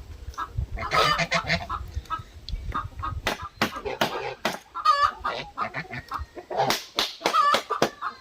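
Chickens clucking, mixed with a run of irregular sharp knocks and clatter from work on a wooden frame.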